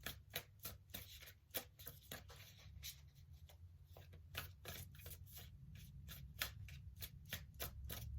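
A tarot deck being shuffled by hand: a faint run of quick, irregular card clicks.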